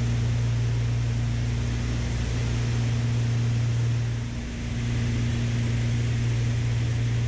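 Steady engine and propeller drone of a Beechcraft Baron B55 twin in cruise on approach, heard in the cockpit as a low hum with hiss above it. It dips briefly about four seconds in and then settles back.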